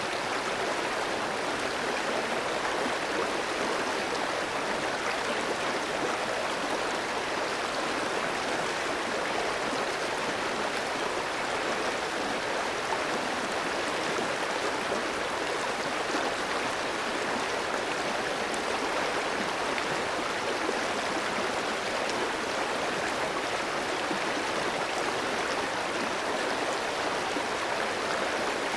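Clear stream flowing over rocks: a steady rushing and gurgling of running water.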